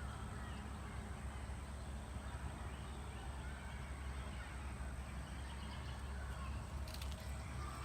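Outdoor ambience on a walking trail: a steady low rumble with a faint haze above it and a couple of faint clicks about seven seconds in.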